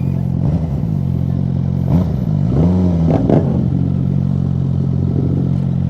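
Motorcycle engine idling steadily, run without its exhaust, with a few short revs rising and falling near the middle.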